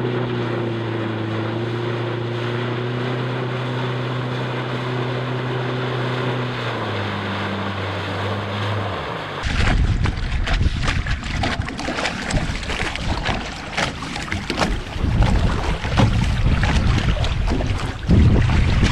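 Jet boat engine running steadily, then dropping in pitch in two steps, around seven and eight and a half seconds in. It then gives way abruptly to loud wind buffeting and rushing water with repeated knocks and thumps from the boat under way.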